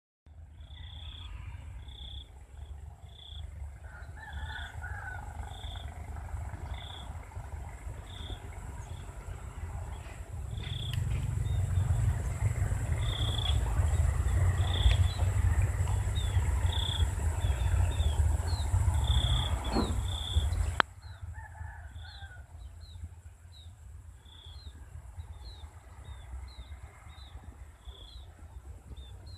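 Birds calling in a rice field: one bird repeats a short high chirp about once a second, quickening to about two a second in the last third, with a few lower calls now and then. A heavy low rumble runs under it, loudest in the middle, and cuts off abruptly about two-thirds of the way through.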